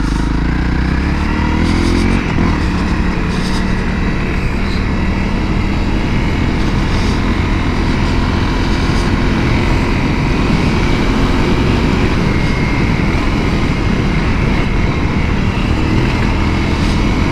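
2017 Honda CRF250L's single-cylinder engine running under throttle on a dirt trail, rising in pitch over the first couple of seconds, then holding a fairly steady pull.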